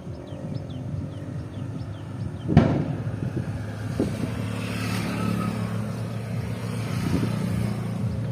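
A motor vehicle's engine running steadily as road traffic, its hum growing stronger about halfway through. A single sharp knock comes about two and a half seconds in.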